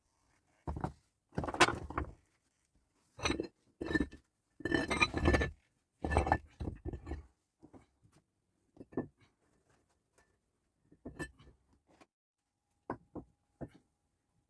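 Irregular series of clinks, knocks and short clatters of hard objects being handled and set down, busiest in the first half and then sparser, with a brief faint ring near the end.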